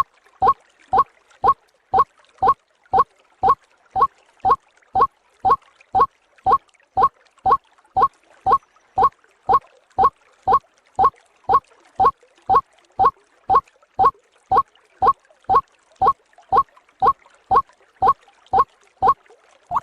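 White-breasted waterhen's 'ruak-ruak' call repeated in a rigid, even rhythm of about two short rising notes a second, a looped bird-trapping lure recording.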